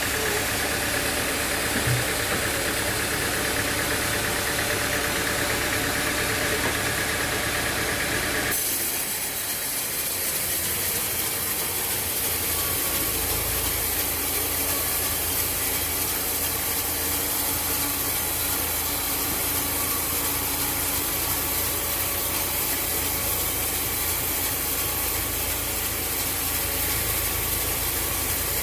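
Engine-driven sawmill machinery running steadily, with the tone changing abruptly about eight seconds in.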